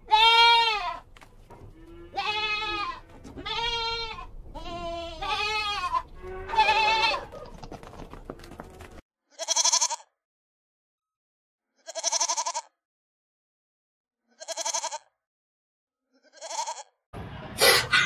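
Bleating: five drawn-out, high-pitched calls one after another, each rising then falling in pitch. After that come four short, separate calls with silence between them.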